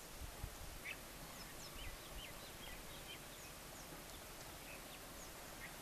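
Small birds chirping faintly, many short high chirps, over a steady outdoor hiss.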